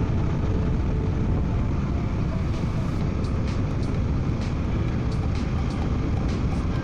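Steady wind rush and low rumble on a helmet-mounted mic while riding a 2024 Suzuki V-Strom 800DE at a steady pace, with the bike's parallel-twin engine running underneath.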